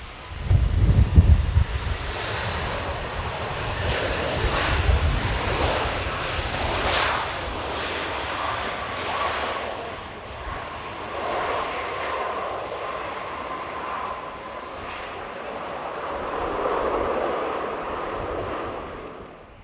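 Airbus A320 jet engines on landing approach: engine noise that swells, holds a steady whine through the middle, and fades toward the end. Low wind gusts buffet the microphone near the start, the loudest moment of the clip.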